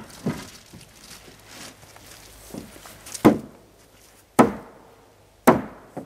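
Hammer driving nails into plywood sheathing on wooden floor joists: several sharp blows about a second apart, the last three the loudest.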